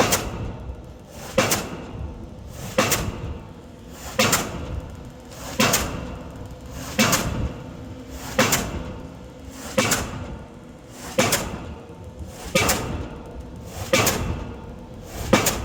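A heavy strike or bang repeated at a steady, even pace, about once every second and a half, each hit ringing out briefly before the next.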